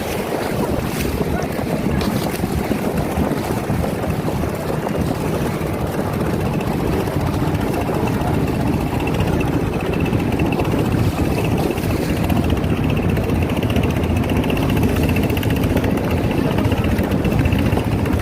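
A river boat running steadily under way, its motor droning low, with wind buffeting the microphone and water rushing past the hull.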